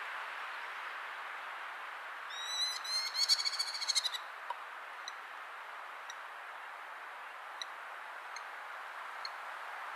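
Merlin giving its rapid, high chattering call, a quick run of sharp notes lasting about two seconds, starting a couple of seconds in. Faint single short notes follow now and then over a steady background hiss.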